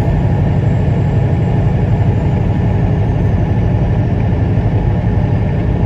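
Semi truck's diesel engine running with a steady, even low rumble.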